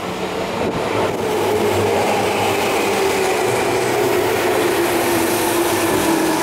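Tobu Railway electric commuter train pulling into the platform and slowing, its motor whine falling steadily in pitch over the rumble of the wheels on the rails.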